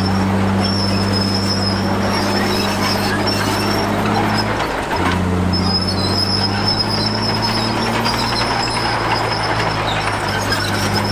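Heavy diesel earthmoving machinery running under load, with a thin high squeal that comes and goes. The engine note dips and changes briefly about halfway through.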